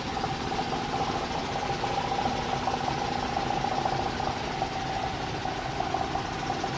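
An engine idling steadily, with an even rapid pulsing and a steady hum.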